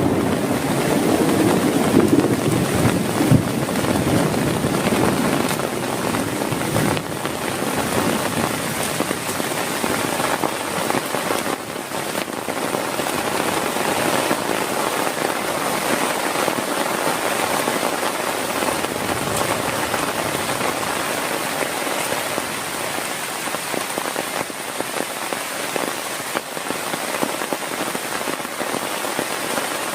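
Heavy rain falling steadily, with the tail of a low thunder rumble dying away over the first few seconds.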